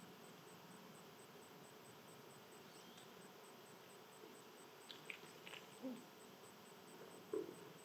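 Quiet outdoor ambience with a few brief, faint bird chirps and a couple of short low calls, the loudest low one near the end.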